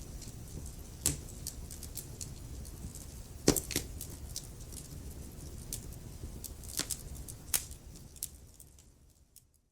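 Wood fire crackling, with irregular sharp pops and snaps over a low steady rustle of the flames. The loudest pop comes about three and a half seconds in. The sound fades away to silence near the end.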